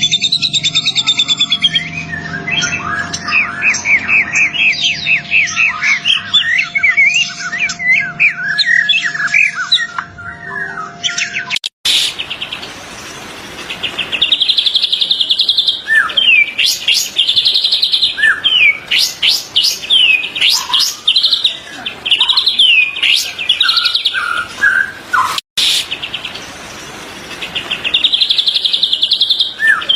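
White-rumped shama singing: loud, varied whistles, sweeping notes and rapid buzzy trills. The song comes in three separately recorded stretches joined by abrupt cuts, about twelve and about twenty-five seconds in. A steady low hum and a faint constant tone lie under the first stretch.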